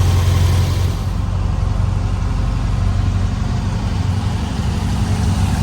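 A car engine running at a steady idle, with a low, even pulse throughout.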